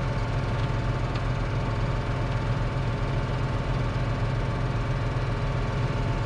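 Tractor engine running steadily at constant speed: a deep, even drone with a thin steady whine above it.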